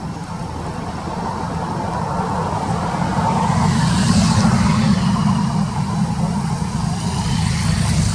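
A motor vehicle's engine running steadily and growing louder, with a rise of hiss about halfway through, as of a vehicle passing.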